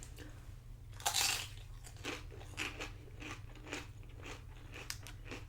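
A person biting into a loaded tortilla-chip nacho with one loud crunch about a second in, then chewing it with crisp crunches about two a second.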